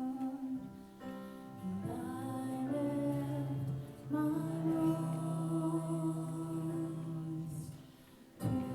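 Worship music with singing in long held notes, phrase by phrase, with short breaks about a second in, near four seconds, and just before the end.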